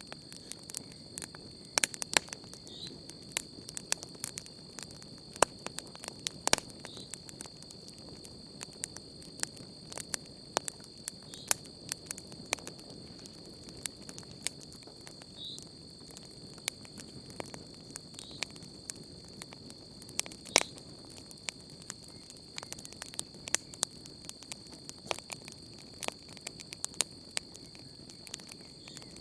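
Wood campfire crackling with irregular sharp pops and snaps, over a steady high-pitched trill of crickets.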